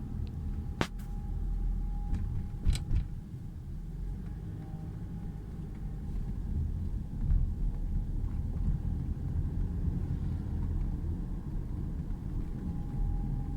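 Toyota RAV4 exhaust running with a steady low rumble and a faint thin whine above it, the abnormal exhaust noise the owner is recording. Two sharp clicks about one and three seconds in.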